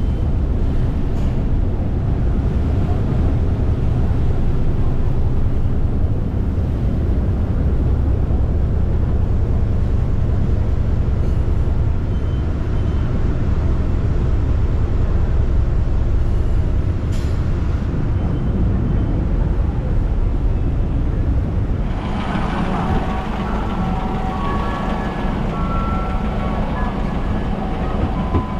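Street ambience: a steady low traffic rumble. About three quarters of the way through it changes to a busier street sound with voices and short tones.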